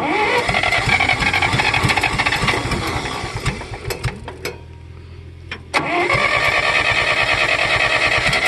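1964 John Deere 1010 tractor's gasoline engine being cranked over by its starter on a cold start with starter fluid, in two long rhythmic bursts: the first fades after about five seconds, and the second starts about six seconds in.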